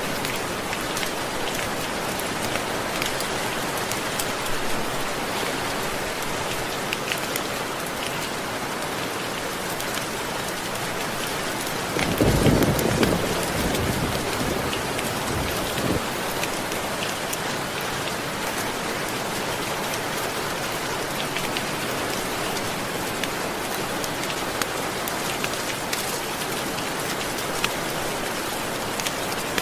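Steady rain falling, with a brief low rumble of thunder about twelve seconds in and a fainter one a few seconds later.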